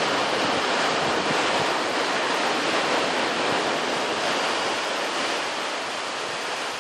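Steady rushing of sea waves, with wind on the microphone, easing slightly near the end.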